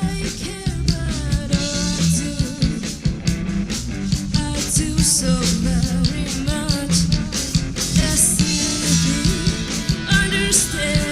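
A rock band playing a song, with singing over a steady drum beat and bass.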